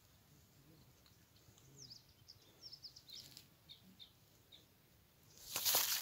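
Small birds chirping, a string of short high chirps over a quiet outdoor background, then a brief loud rush of noise near the end.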